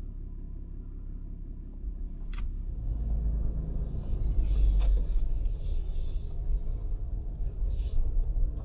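Vehicle setting off: a low engine and road rumble that builds up from about two and a half seconds in as it gets under way, with a single sharp click just before.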